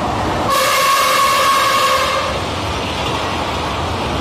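WAP-7 electric locomotive's horn sounding one steady note for about two seconds as the train runs through at speed. After the horn stops, only the steady rumble and rush of the passing coaches remains.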